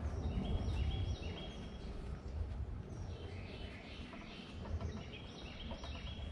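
A songbird singing two runs of short repeated notes, about a second apart, over a steady low outdoor rumble.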